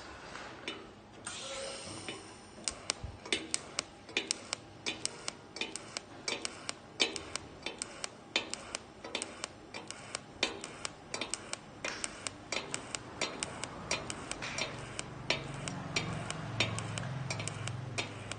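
Electric arc welding: sharp, irregular crackles and pops, about two or three a second, over a faint hiss.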